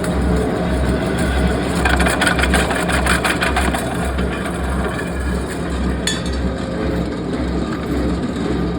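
Heavy forging-shop machinery running, with a low throb pulsing about twice a second. A rapid rattle of clicks comes about two seconds in, and a single metallic clank rings out about six seconds in.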